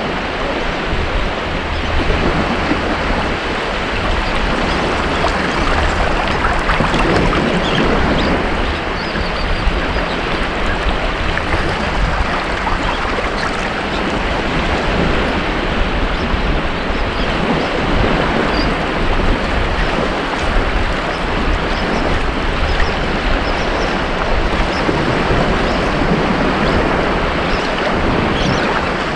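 Ocean waves breaking on a beach in a continuous wash of surf, swelling and easing every few seconds.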